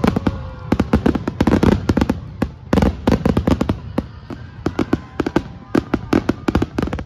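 Aerial fireworks going off in a rapid, dense volley of bangs and crackles, several a second, stopping abruptly at the very end.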